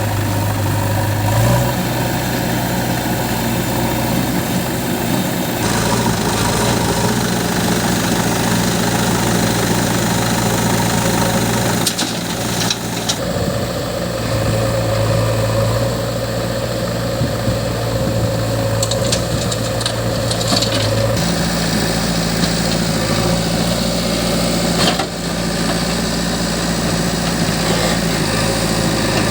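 Heavy diesel engine running steadily, its speed stepping up or down a few times, with a few short clicks or knocks.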